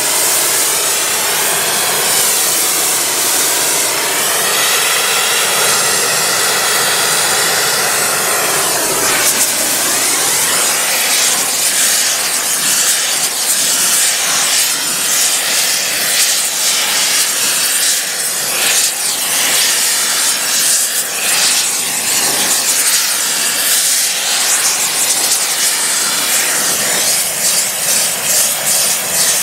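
Loud, steady roaring hiss of a gas preheating burner blasting into the mould on the rail ends, heating the joint before the thermite is poured. About nine seconds in, the steady roar turns rougher and more crackly.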